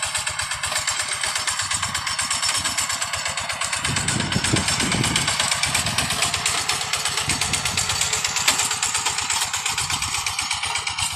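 Tractor engine running steadily in a fast, even beat while ploughing a rice paddy.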